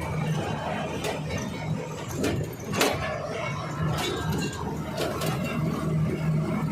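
Steady low hum of an idling engine, with a few sharp clicks and knocks scattered through it; the loudest knock comes a little under three seconds in.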